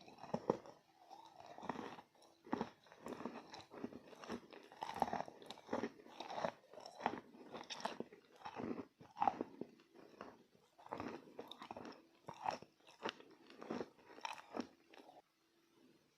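Chalk being bitten and chewed close to the microphone: a long run of irregular crunches, one or two a second, that stops about fifteen seconds in.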